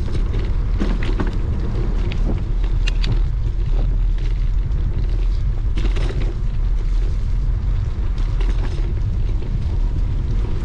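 Wind buffeting the microphone on a moving bicycle, a steady low rumble, with scattered clicks and rattles from the bike.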